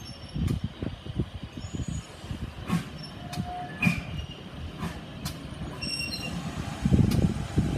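Heritage railway locomotive moving slowly during its run-round, with wheels squealing on the rails and a few sharp metallic clicks over a low rumble. The rumble grows louder near the end.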